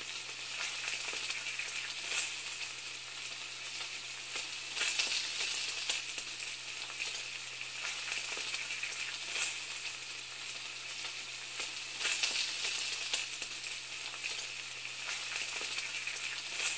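Food sizzling in a hot pan: a steady hiss with irregular crackles and pops.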